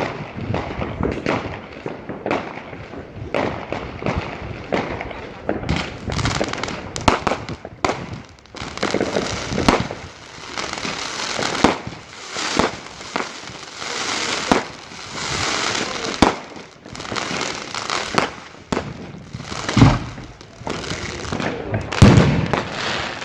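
A fireworks display going off without a pause: a dense run of bangs and crackling, with two deep, loud booms near the end.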